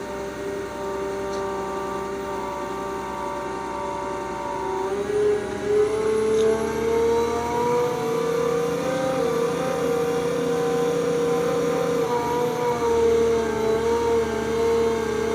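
Putzmeister concrete pump's engine running steadily. Its pitch rises a little about five seconds in, then holds at the higher speed.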